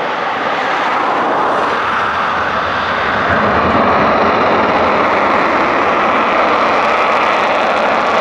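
Twin EJ200 turbofan engines of a Eurofighter Typhoon running loud and steady, swelling over the first three seconds or so.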